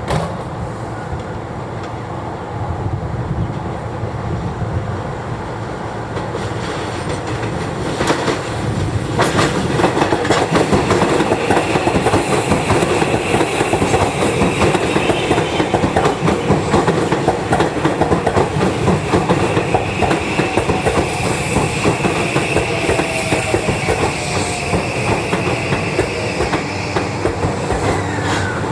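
Tokyu 3020 series electric train running past, its wheels clattering over the rail joints in a fast, steady rhythm that grows louder about eight seconds in. A faint high steady whine sits over the clatter through the middle.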